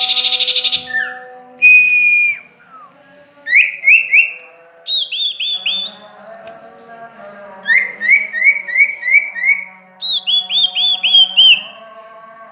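Songbird singing: a short buzzy chatter, a held whistle, then phrases of quick repeated whistled notes, three to seven in a row. Underneath runs a steady hum of several held tones.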